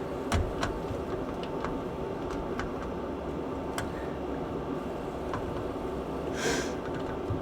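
Scattered light clicks and taps of small hardware being handled while lining a bolt up with its hole, with a short rustle near the end, over a steady background hum.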